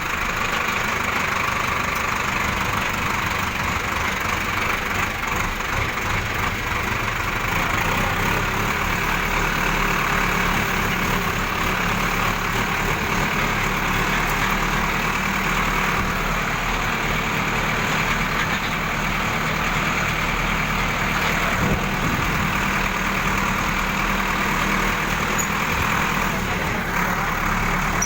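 A vehicle engine idling steadily, unchanging throughout.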